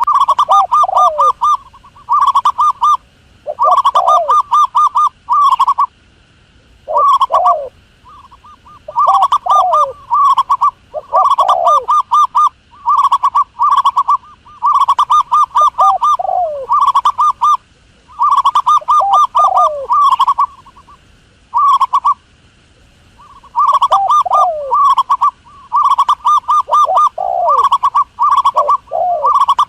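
Dove calls: phrase after phrase of rapid, stuttering trilled coos with a few lower falling notes, separated by short pauses.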